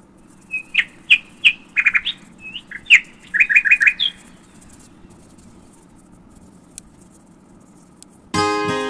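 A small bird chirping: quick series of short, sharp chirps, some in fast runs of four or five, over the first four seconds, then silence from the bird. Acoustic guitar music starts just before the end.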